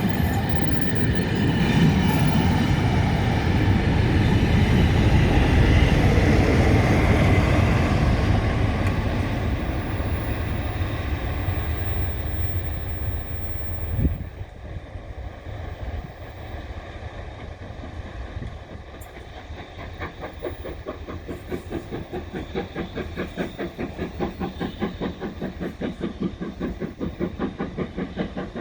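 Rail charter train's coaches running past at close range, the wheels clattering over the rail joints. The sound is loud for the first dozen seconds, then fades, with a sharp knock about halfway. In the last third a regular beat of about two a second builds.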